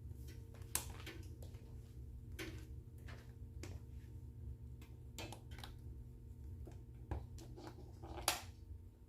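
Wood fire in a fireplace crackling, with irregular pops and snaps; the sharpest pops come about a second in and near the end, over a low steady rumble and hum.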